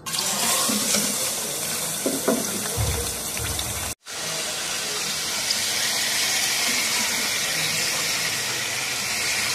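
Hot oil sizzling steadily in a cooking pot as chicken pieces and ginger-garlic paste fry. There are a few low knocks about three seconds in and a short break a second later.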